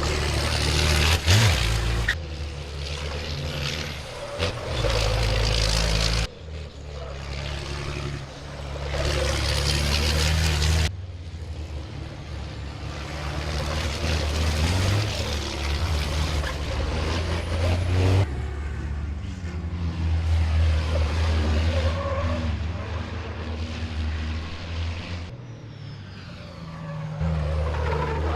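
Racing trucks' turbodiesel engines running and passing on the circuit, heard in several shots that change abruptly every few seconds.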